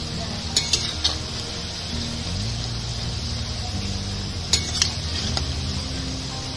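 Khasta khajur dough pieces deep-frying in hot oil in a steel kadai, with a steady sizzle. A metal spatula clinks against the pan three times around a second in and twice more about four and a half seconds in as it turns the pieces.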